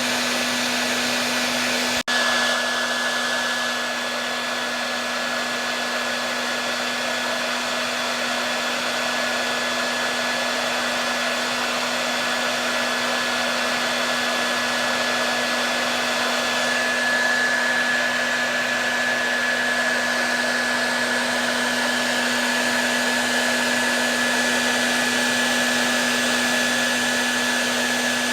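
Hair dryer running steadily: a continuous rush of air with a low motor hum and a thin high whine, broken once by a momentary cut about two seconds in.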